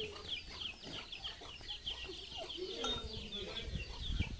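Birds calling: a steady run of fast, high, repeated chirps, with some lower calls about three seconds in. A dull thump sounds near the end.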